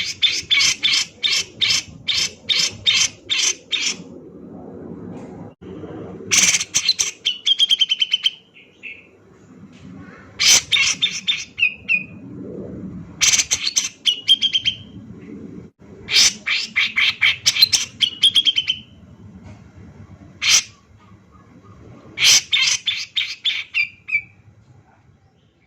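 Grey-cheeked bulbul (cucak jenggot) singing: about six loud phrases of rapid repeated notes, most ending in a short wavering whistle, separated by pauses of one to two seconds. A faint low hum fills the gaps between phrases.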